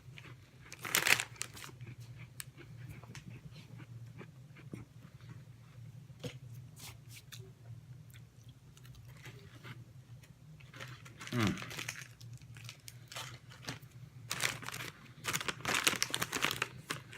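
Snack wrapper crinkling and tearing as a packaged candy is worked open, in scattered rustles and clicks, with denser crinkling near the end.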